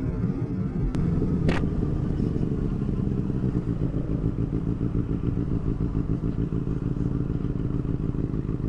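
Benelli 600i's inline-four engine running at a steady, even note, with no revving. A brief sharp click about a second and a half in.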